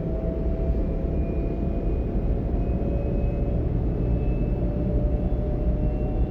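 DB Class 425 S-Bahn electric multiple unit running, heard from inside the passenger compartment: a steady rumble of wheels on rail, with the traction drive's faint whine rising slowly in pitch.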